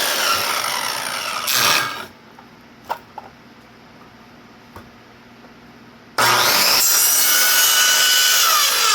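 Power saw cutting through wood twice: a short cut of about two seconds at the start, then a longer cut beginning about six seconds in.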